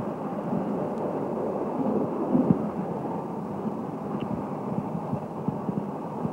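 Passenger express train running at speed, heard as a steady rumble of wheels on the rails with scattered short knocks, the loudest about two and a half seconds in.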